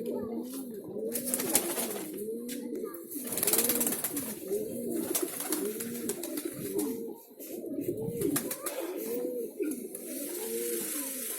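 Pigeons cooing over and over, a steady string of low rising-and-falling coos about once a second.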